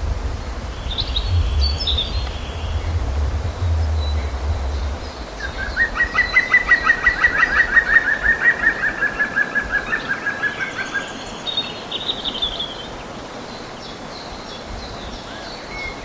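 Birds calling: one gives a rapid series of short, even notes, about five a second, for roughly five seconds, with brief higher chirps from other birds before and after. A low rumble sits underneath in the first few seconds.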